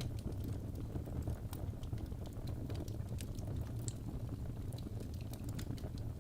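Birch logs burning in a fireplace: a steady low rumble of the fire with frequent irregular sharp crackles and pops.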